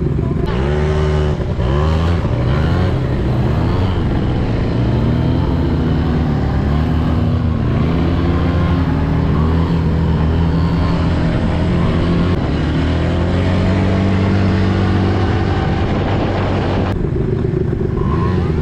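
Quad bike engine revving up and down as it is ridden, its pitch rising and falling over and over, easing off about a second before the end.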